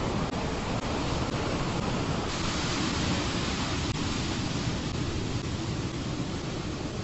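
A steady rushing noise with no distinct events, its hiss turning brighter about two seconds in.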